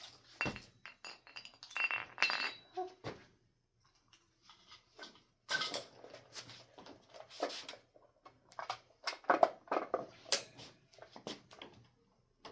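Irregular clinks and knocks of hard objects being handled and set down, a few ringing briefly, with a pause of near quiet partway through.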